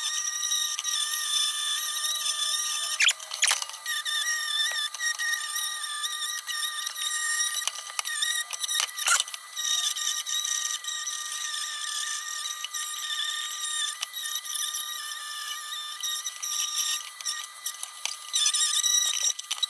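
Dremel rotary tool with a wire wheel running, a steady high-pitched whine with scratchy, uneven grinding as the wire brush scrubs stubborn paint off the lantern's metal, with a few sharp clicks.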